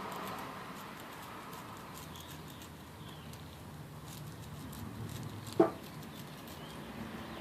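Faint, scattered scratching and ticking of a pen tracing a gasket outline onto a cork gasket sheet, with one short, sharp click about five and a half seconds in.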